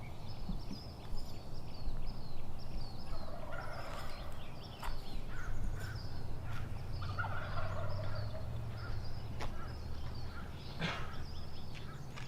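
Turkey gobbling, two rattling gobbles a few seconds apart, with small birds chirping faintly and a low steady outdoor rumble.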